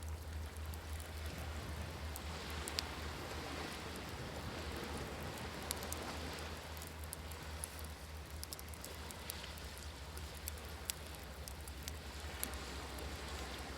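Wood campfire crackling, with scattered sharp pops, over a steady wash of ocean waves and a low rumble.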